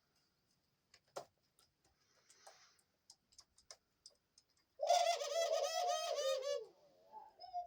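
Dove cooing: a wavering call lasting about two seconds past the middle, trailing off lower and quieter afterwards. Faint taps and clicks come before it.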